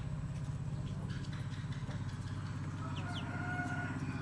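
Chickens calling, with short pitched calls near the end, over a steady low motor-like hum.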